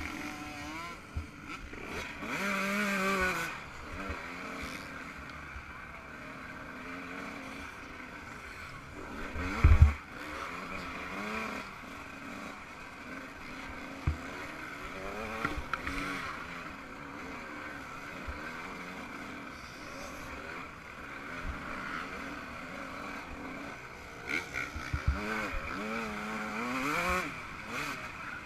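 Yamaha YZ125 two-stroke single-cylinder engine revving up and down as the bike is ridden hard in a race. There is a loud thump about ten seconds in and a few sharp knocks near the end.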